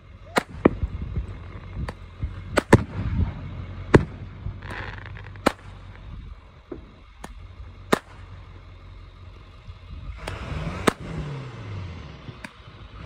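Fireworks exploding: a string of sharp bangs at irregular intervals, with a stretch of hissing crackle near the end.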